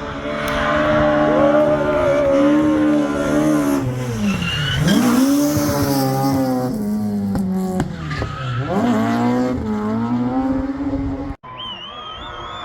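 A rally car's engine running hard at high revs, its pitch dropping sharply twice and climbing back as the driver lifts off and changes gear, with a short tyre squeal. Near the end the sound cuts off abruptly and gives way to quieter car noise with a wavering tyre squeal.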